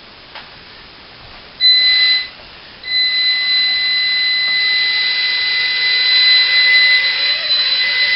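Mini quadcopter's tiny motors spinning up with a steady, high-pitched whine: a short burst about a second and a half in, then a sustained run as it lifts off.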